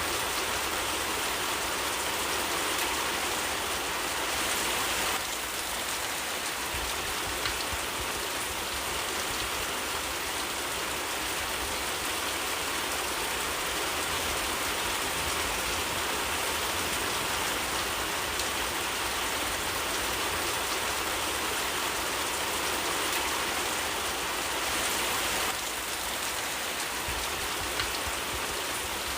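Steady rain falling on foliage and ground in a forest, a dense even hiss of drops.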